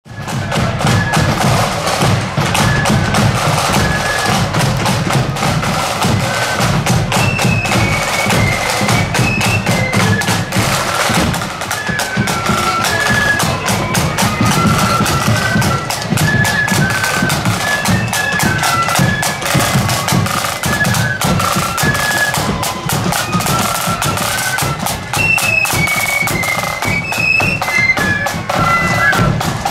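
Marching band playing a tune on high-pitched melody instruments over a steady, dense beat of drums.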